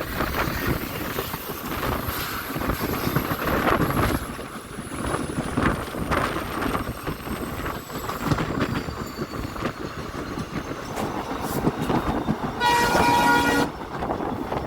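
Passenger train running on the rails, a steady rumble of wheels and wind. Near the end the WDP4B diesel locomotive sounds one horn blast of about a second.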